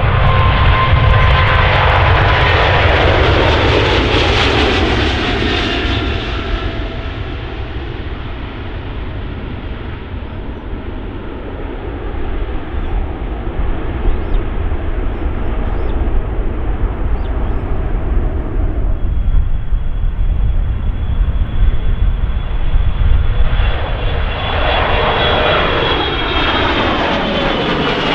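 Jet airliner engines passing close by, their whine falling in pitch as the aircraft goes past and the noise easing to a rumble. Later the noise swells again, topped by a high steady whine.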